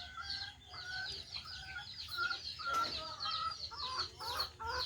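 Birds chattering: a dense stream of rapid high chirps, typical of a flock of lovebirds, with short clucking calls repeated about once a second mixed in.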